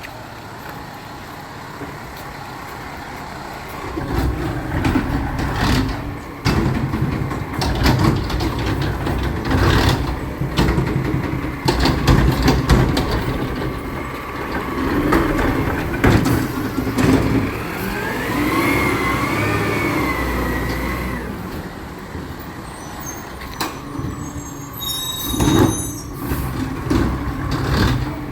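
Recycling truck working: its engine grows louder about four seconds in, with repeated clanks and knocks, and a whining tone that rises and falls for a few seconds past the middle.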